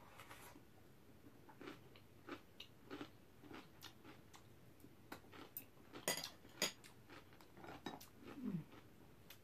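Quiet chewing and mouth sounds of someone eating napa cabbage kimchi. Scattered light clicks of metal chopsticks come throughout, with two sharper clicks a little after halfway.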